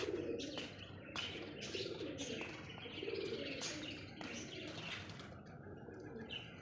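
Caged birds calling: low cooing, typical of doves or pigeons, mixed with many short chirps.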